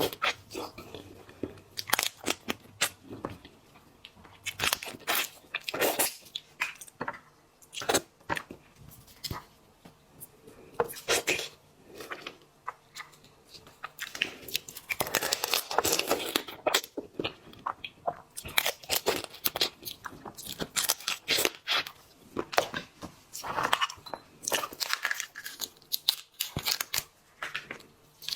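Close-miked eating of shellfish: shells cracking and being torn apart, with crunching and chewing in many sharp, irregular cracks and a few longer stretches of tearing.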